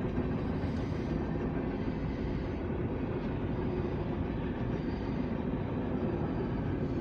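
Freight train cars rolling past on the rails: a steady rumble.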